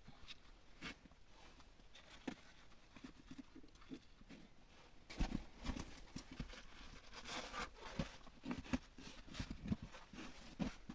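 Irregular knocks, clicks and crunches of hands-on work, sparse at first and louder and busier from about five seconds in.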